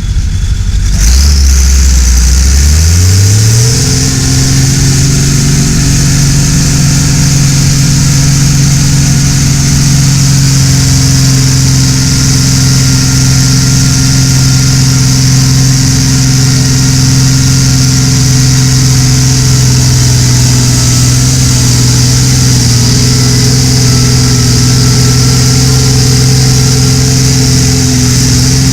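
Competition pulling tractor's engine revving up in steps over the first few seconds, then held at high, steady revs under load while it drags the weight-transfer sled.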